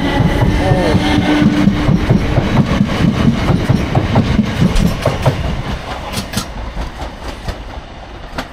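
A Class 455 electric multiple unit running on the track, its wheels clattering over rail joints in quick clicks and knocks. The sound is loud at first and fades steadily as the train pulls away.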